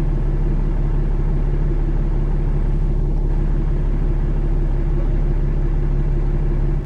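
Vehicle engine idling steadily: a constant low hum with a few held tones and no change in speed.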